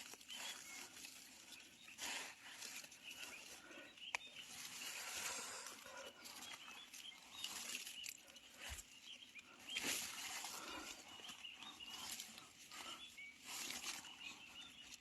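Irregular rustling and crackling of leaf litter and undergrowth underfoot and by hand, with a few sharp snaps, the louder one about two-thirds of the way in. Faint short high chirps sound throughout.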